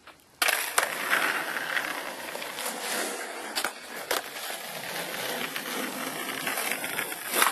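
Skateboard wheels rolling over pavement, starting suddenly about half a second in. Sharp board clacks come several times, the loudest near the end.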